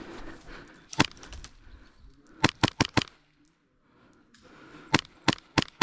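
Airsoft replica firing single shots, each a sharp crack. There is one shot about a second in, then two quick strings of four.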